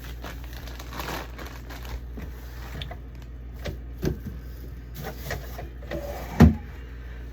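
Handling noises from fruit being sorted and bagged: scattered knocks, clicks and rustles, with one loud thump about six and a half seconds in, over a steady low hum.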